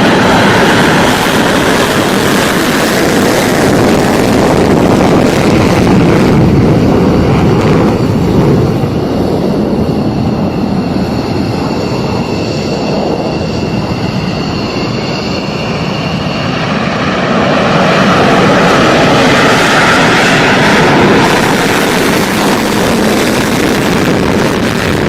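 Loud, steady roar of an F-15 fighter jet's engines, with a high whine audible in the middle stretch. The roar eases slightly in the middle, then swells again later.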